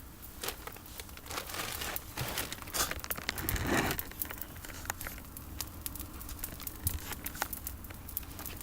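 Campfire of pruned olive branches crackling, with sharp pops scattered throughout and a denser, louder flurry of crackling about two to four seconds in.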